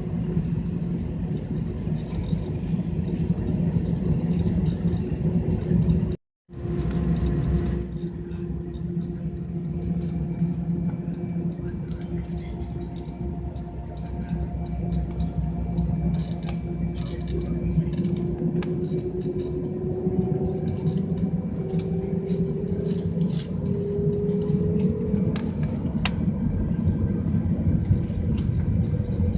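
Air India airliner's jet engines heard from inside the cabin as a steady low rumble with a whine that rises slightly in pitch past the middle. The sound cuts out for a moment about six seconds in.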